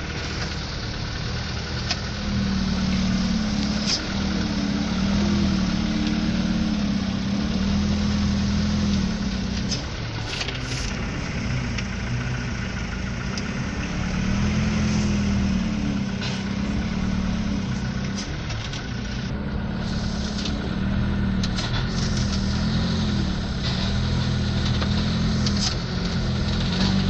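A truck's engine running under load, its pitch rising and falling repeatedly as it revs up and down, with a few short clicks along the way.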